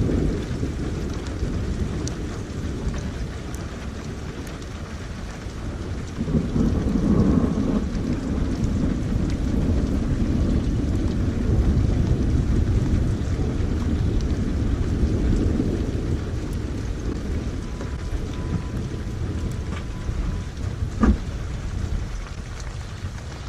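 Steady rain with thunder: a long low rumble swells about six seconds in and slowly fades, and a single sharp tap sounds near the end.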